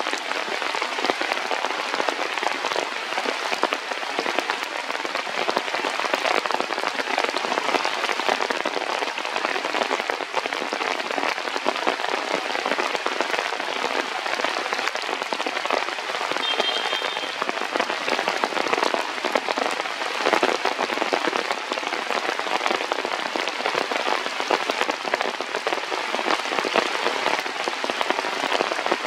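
Steady heavy rain pattering on surfaces, a dense hiss of many drops without let-up.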